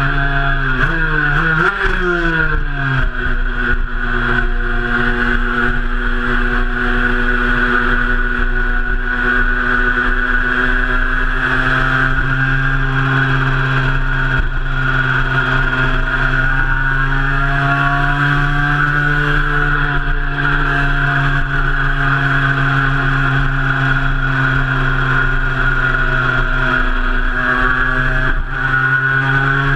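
Cagiva Mito 125's two-stroke single-cylinder engine running under way, heard from on the bike. Its pitch shifts up and down in the first few seconds, then holds a steady cruising note with a slow rise and fall later on.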